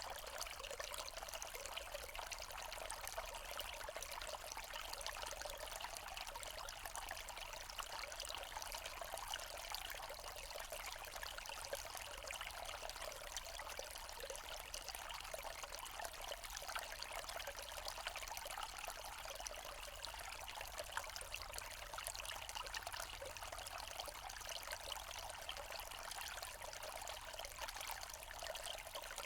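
Small forest stream trickling and splashing steadily over stones.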